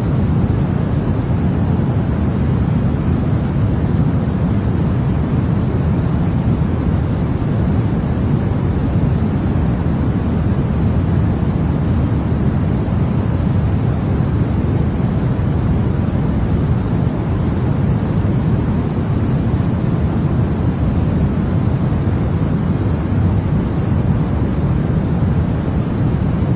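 Continuous sleep noise for babies, marketed as white noise: a steady, deep rushing hiss, strongest in the low range, with no changes, tones or breaks.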